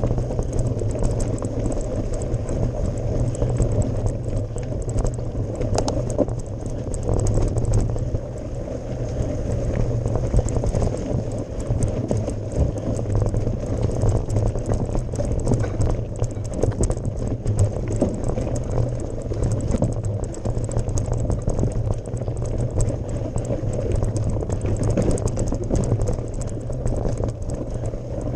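Mountain bike climbing a gravel forest road: a steady low rumble of tyres rolling over loose gravel, with many small clicks and rattles throughout.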